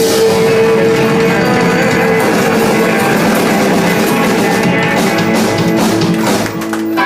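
Live band playing the final bars of a song on guitar and drums. A long held note ends about two seconds in, and the band stops near the end.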